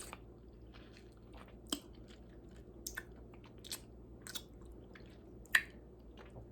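A person biting into and chewing a piece of lemon close to the microphone, with faint, scattered wet mouth clicks at irregular moments.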